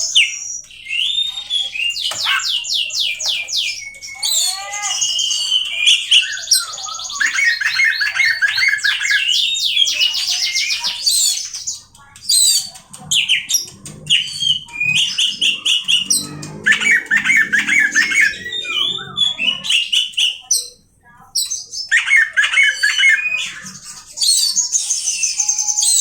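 Oriental magpie-robin (kacer) singing a long, varied song of fast trills and whistled phrases, with brief pauses about halfway through and again later.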